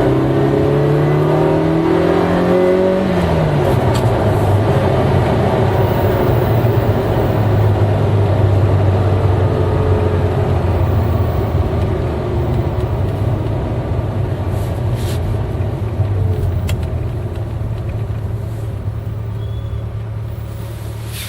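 V8 car engine under way, its pitch rising for about three seconds and then falling, after which it runs steadily and grows gradually quieter toward the end.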